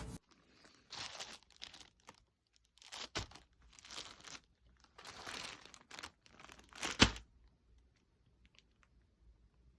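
Packaging being crinkled and torn: a string of short rustling, crackling bursts over about six seconds, the sharpest crackle near the end.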